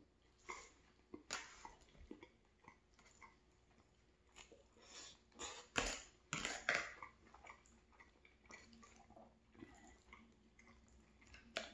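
Close-up eating sounds: a person chewing a mouthful of pulled pork and vegetable stew while a fork digs in a foil tray, in soft irregular bursts that are loudest for a couple of seconds around the middle.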